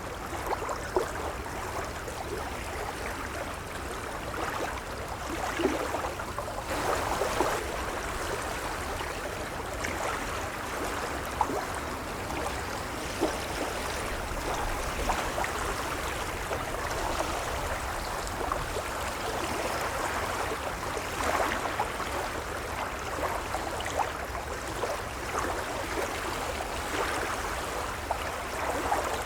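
Gentle waves lapping: a steady wash of water with frequent small splashes and gurgles.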